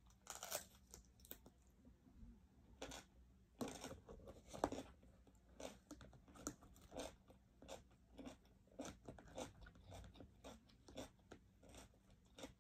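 A person biting into and chewing steamed cabbage leaf, close up: a run of soft, short, irregular crunches.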